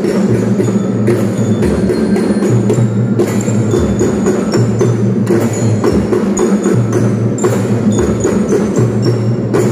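Kindergarten drum band playing: a steady drum beat of evenly spaced strikes under a high, ringing metallic bell melody and sustained lower tones.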